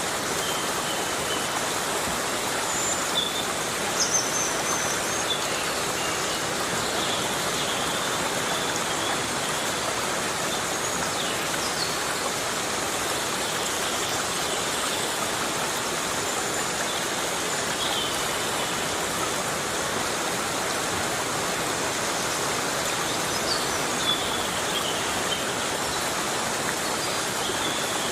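Heavy rain falling steadily on rainforest foliage, a dense even hiss. A few short high chirps break through now and then.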